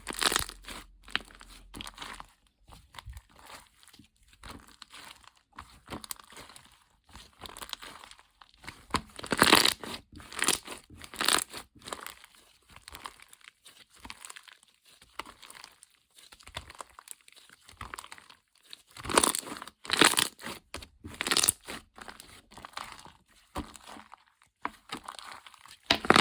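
Crinkly material being handled close up: irregular crinkling and tearing rustles that come in clusters, louder about ten seconds in and again towards the end.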